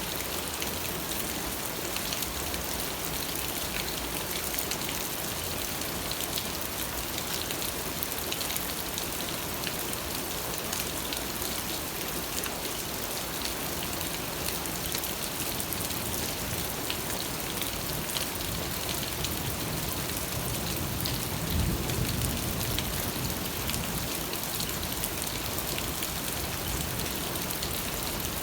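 Steady rain falling, with the patter of individual drops. A brief low rumble swells up about three-quarters of the way through.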